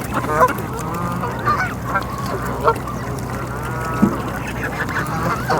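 A flock of Canada geese honking, many short calls overlapping one another throughout.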